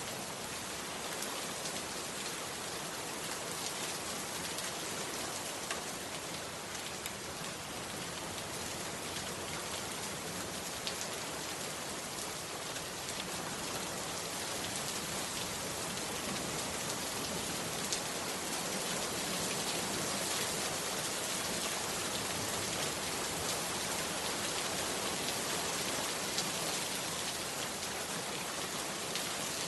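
Heavy rain falling steadily as a dense hiss, with a few sharper drop ticks standing out, growing slightly louder in the second half.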